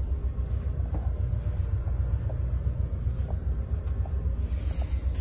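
Steady low rumble of a moving long-distance passenger train heard from inside the cabin, with a few faint clicks.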